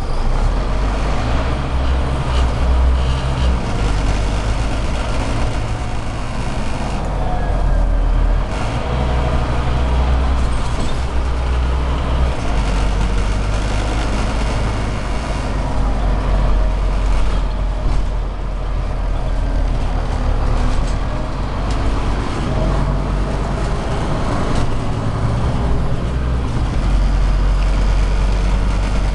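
Scania OmniCity city bus with a Euro 4 diesel engine, heard from inside the cabin while driving. There is a steady low drone, and the engine note rises and falls with speed.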